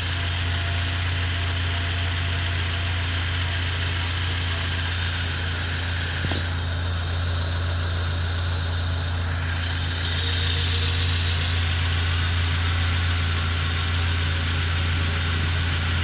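Car engine idling steadily under the open hood, with the air-conditioning compressor running while R134a refrigerant is charged through the low side. It is a steady low hum with a hiss over it, and the hiss changes in character for about four seconds in the middle.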